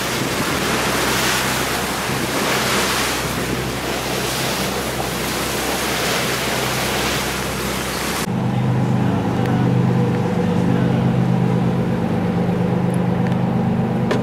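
Tour boat under way: its engine drones low and steady under a loud rush of wind and water over the microphone. About eight seconds in, the wind and water hiss drops away suddenly, leaving the engine's drone clearly in front.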